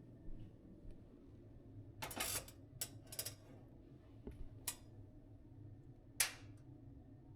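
Scattered light clicks and knocks of small objects being handled, with a short rustling clatter about two seconds in and a sharper click a little past six seconds.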